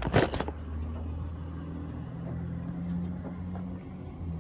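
A brief clatter of knocks at the start, then a motor vehicle's engine idling with a steady low hum.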